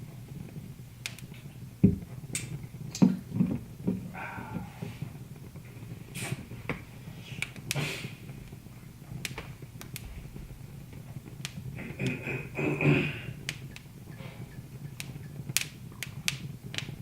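Wood fire in a fireplace crackling, with irregular sharp pops and snaps over a steady low rumble. A louder thump comes about two seconds in, and more louder pops follow near three seconds and near the end of the first three quarters.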